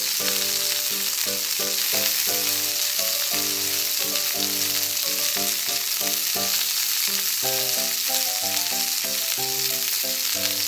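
Steady frying sizzle: a sizzling-pan sound effect dubbed over play cooking, for cheese melting in the pan. A light melody of stepping notes plays underneath.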